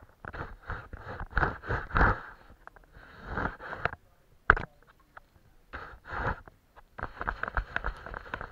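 Paintbrush working watercolour on paper: bursts of quick short strokes with brief pauses, and one sharp tap about four and a half seconds in.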